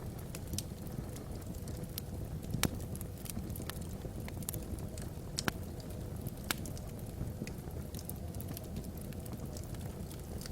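Logs burning in a fireplace, crackling: irregular sharp pops, one louder snap a few seconds in, over a steady low rumble.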